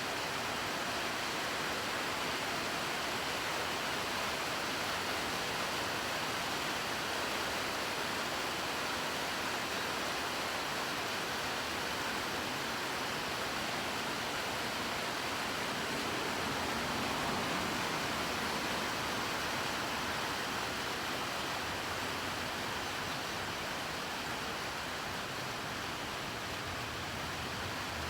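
Rain falling steadily: an even hiss with no breaks and no separate drops standing out.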